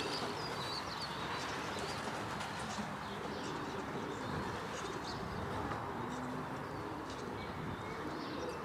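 Racing pigeons cooing faintly, with a few small high chirps, over a steady rush of wind noise.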